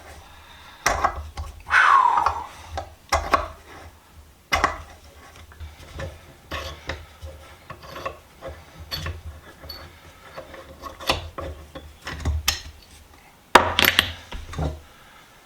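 Irregular knocks, clunks and rubbing of metal vise parts being worked loose during disassembly, with a short falling squeak about two seconds in.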